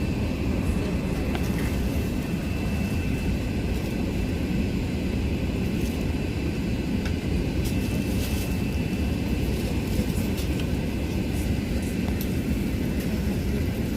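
Steady cabin noise inside an Airbus A380: an even rush of engine and airflow, with a thin, steady high whine above it.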